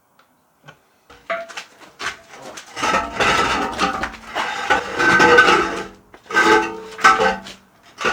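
Irregular scraping and rubbing on metal in several bursts, with a faint ringing tone in some strokes, during work on an old metal wood stove.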